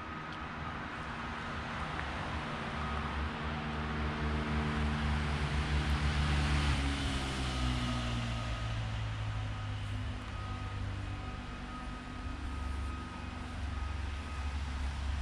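Audi RS3's turbocharged five-cylinder engine idling steadily. About seven seconds in, its pitch and level drop a step, then it settles into a lower, steady idle.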